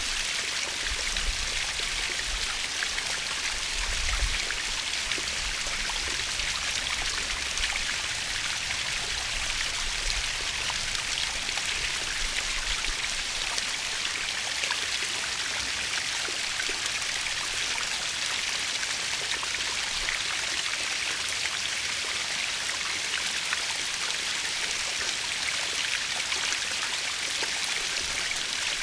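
Waterfall running steadily: a continuous hiss of falling and splashing water.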